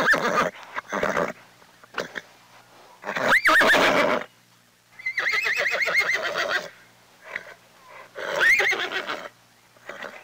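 A horse neighing several times, a few seconds apart; each whinny has a shaky, trilling pitch, with short snorts in between.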